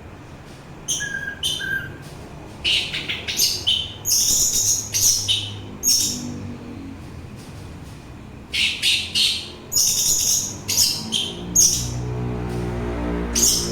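Orange-headed thrush singing: short bursts of high, varied chirping phrases with brief pauses between them. A low hum comes in near the end.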